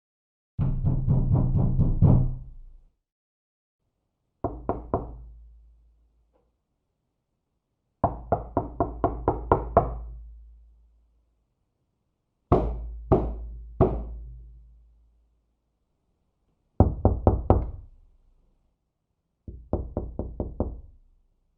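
Knocking on a door in six separate bouts with silence between: quick runs of rapid raps, a short group of four knocks, and near the middle three slower, heavier bangs. Each knock is sharp with a low, hollow ring after it.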